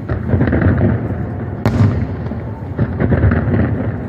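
Fireworks going off: a dense run of booms and crackling bursts, with one sharp bang about a second and a half in.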